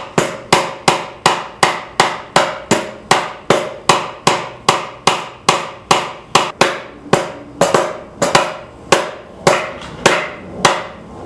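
Hammer driving nails into the wooden boards of a birdhouse: a steady run of sharp blows, about three a second, spacing out slightly near the end.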